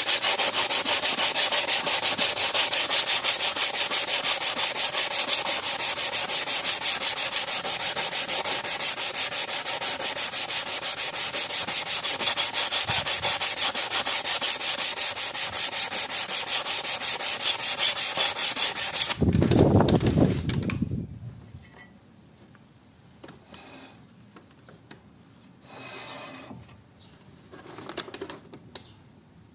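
Sanding the rust off a brake rotor: a steady, unbroken scraping that stops about 19 seconds in, followed by a short low rumble and then light handling sounds.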